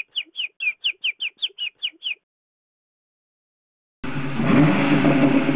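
Bird chirping in a fast run of short falling chirps, about five a second, stopping about two seconds in. After a silent gap, a louder, rough noisy sound starts about four seconds in.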